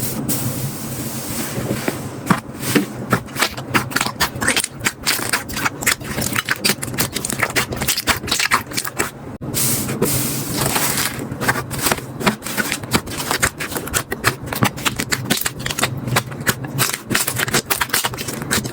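Slime being squeezed and poked by hand, a dense run of quick clicks and crackles, with a short break about nine seconds in.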